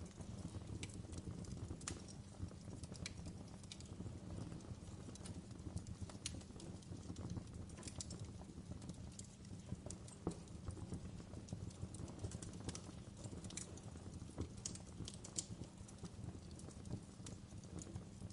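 Wood fire in a fireplace crackling: irregular sharp pops and snaps over a low steady rumble of the flames.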